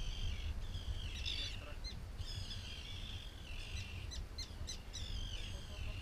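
Birds calling again and again, a steady chorus of short, high, harsh calls, over a low steady rumble.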